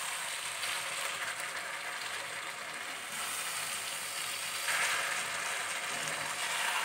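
Cubed eggplant sizzling in hot oil and masala in a nonstick frying pan while being stirred and tossed with a spatula, a steady hiss that swells with the strokes.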